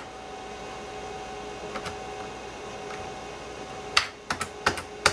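Keys typed on the keyboard of an IBM PS/2 Model 25: a single keystroke about two seconds in, then a quick run of several sharp keystrokes near the end, over a steady hum.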